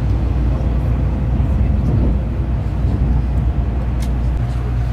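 Shinkansen bullet train running, heard inside the passenger car: a steady, loud low rumble.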